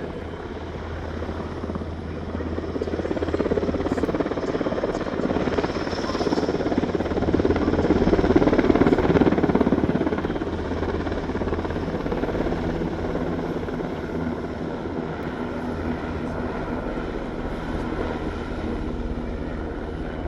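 Aircraft engine noise that swells to its loudest about nine seconds in, then eases to a steady drone over a low hum.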